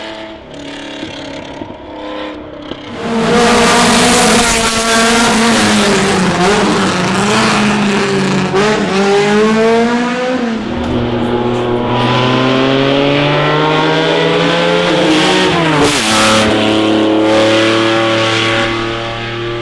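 Classic racing car engine under hard acceleration on a hillclimb, getting loud about three seconds in, its pitch climbing and then dropping sharply at two upshifts, one near the middle and one about three-quarters through.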